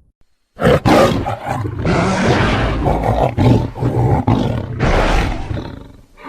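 Creature roar sound effect, mixed from dinosaur and lion roars. It starts about half a second in, runs loud in several swells with short breaks, and dies away near the end.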